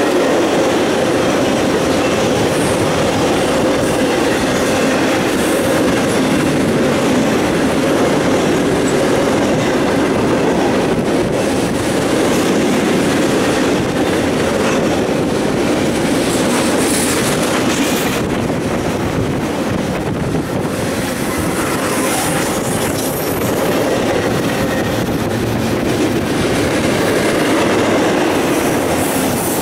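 CSX double-stack intermodal freight train's cars passing close by: a steady, loud rolling rumble of steel wheels on rail.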